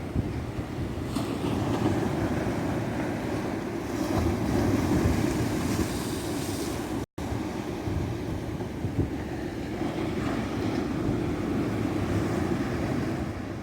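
Ocean surf washing onto a beach, a continuous rush of water that swells and eases, with wind buffeting the microphone. The sound cuts out for a split second about halfway through.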